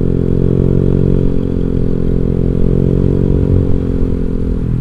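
Honda Vario 150 scooter's single-cylinder engine through an aftermarket Black Devil exhaust, running steadily while ridden at cruising speed, its pitch easing down slightly near the end.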